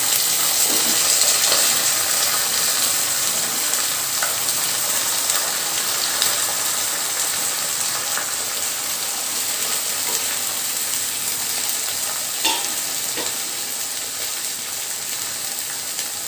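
Chopped green beans sizzling in hot oil in a kadai, just added to the tempering: a steady frying hiss that slowly dies down. A few light knocks from stirring, most clearly about twelve to thirteen seconds in.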